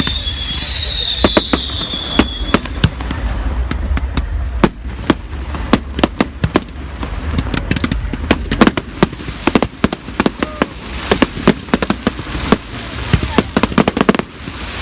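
Fireworks display: high whistling rockets falling in pitch for the first couple of seconds, then a rapid, uneven run of sharp bangs and crackles, dozens of them, over a steady low rumble.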